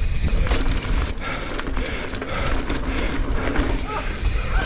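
Wind buffeting a ride-along camera microphone over the rumble of mountain bike tyres rolling fast down a dirt jump trail.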